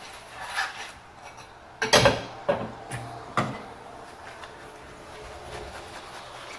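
Dishes being washed by hand: soft rubbing and scrubbing on dishware, with a few knocks of dishes against each other about two seconds in and again near three and a half seconds, then a quieter steady rubbing.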